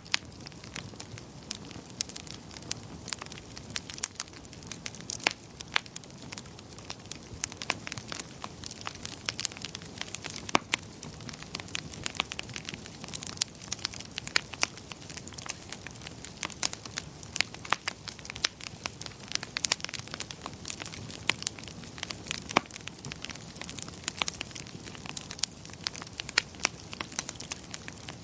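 Wood fire crackling, with irregular sharp pops and snaps of varying loudness over a low steady rumble of burning.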